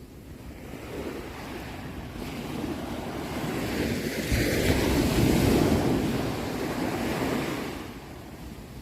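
Ocean surf: one wave builds up, is loudest around the middle, and washes back, fading near the end.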